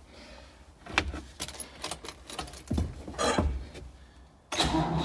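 Clicks and the jingle of keys, then about four and a half seconds in a Ford 5610's starter motor suddenly begins cranking the cold diesel engine, a steady churn with an even, repeating pulse.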